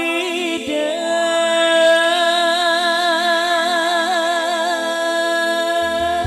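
Female singer holding one long note with a wide vibrato in a Sundanese song, sliding up into it at the start and cutting off just before the end, over a steady held accompaniment tone.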